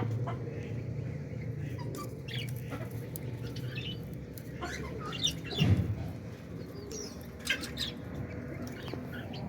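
Pet budgerigars chirping in short, scattered high calls over a steady low hum, with a brief louder thump a little past the middle.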